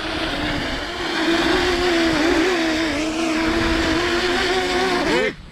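Quadcopter camera drone hovering close by, its propellers giving a steady buzzing whine over a rushing hiss, the pitch wavering a little. The pitch rises briefly and the sound cuts off suddenly near the end.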